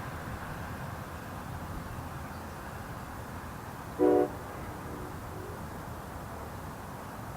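Locomotive air horn sounding one short blast of several tones together about four seconds in, over a steady low rumble.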